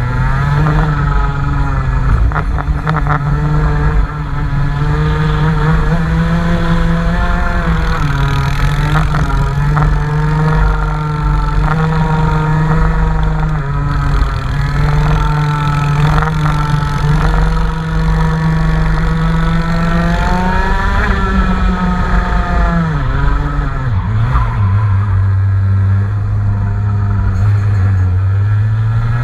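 Race car engine running under load, holding a fairly steady note with small rises and dips in revs. About two-thirds of the way through it eases to a lower steady note, then picks up again at the very end.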